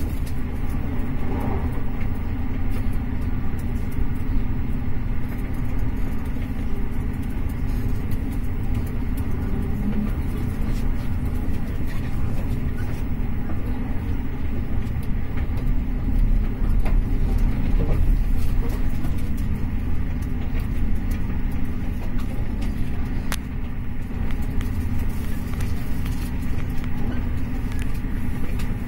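Moving passenger train heard from inside the carriage: a steady rumble of the wheels running on the rails, with a low hum and occasional faint clicks.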